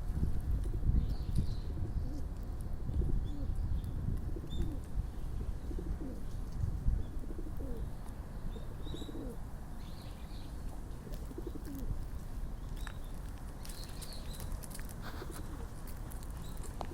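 Pigeons cooing, with short low calls repeating through the first half, over a steady low rumble.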